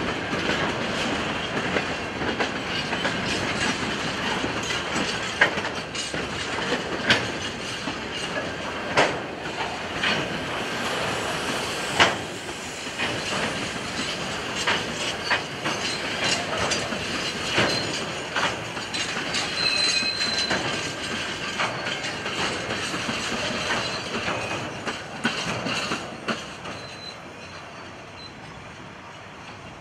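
Freight train of empty grain wagons rolling past on the rails: a steady rumble with wheels clicking sharply over rail joints. A brief high wheel squeal comes about two-thirds of the way through, and the sound falls away near the end as the train moves off.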